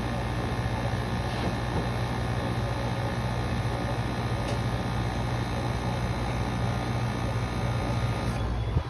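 Window air conditioner running steadily, its fan blowing with a low electrical hum underneath. Right at the end there is a loud click.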